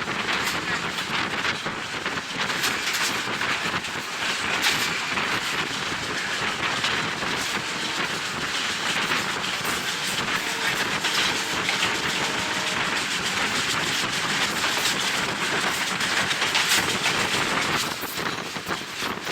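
Passenger train running along the line, its wheels clicking over the rail joints again and again under a steady rush of wind buffeting the microphone from the train window.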